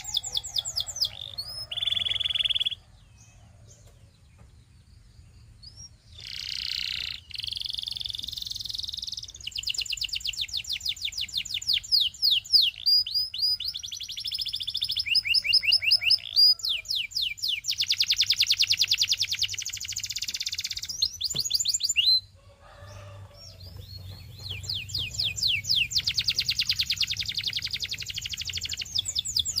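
Canary singing: long phrases of very fast trilled notes and quick rising and falling whistles, with two short lulls, one near the start and one about two-thirds through.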